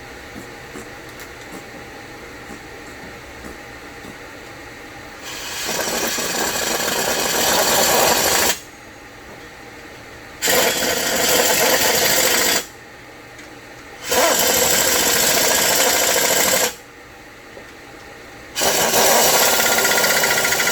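Power tool run in four bursts of two to three seconds each, separated by short pauses; the first one builds up about five seconds in.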